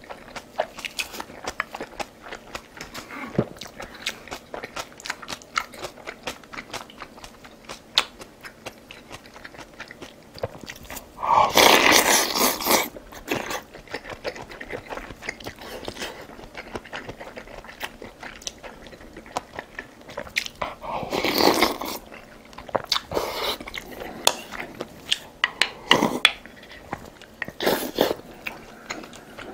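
A person eating close to the microphone: chewing and biting with many small crisp clicks, broken by two longer, louder noisy passages about 12 and 21 seconds in.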